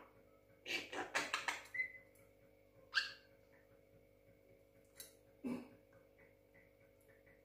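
Young Javan myna giving a few short, harsh calls and a brief whistle in scattered bursts: a cluster about a second in, a sharp call around three seconds and another around five and a half seconds.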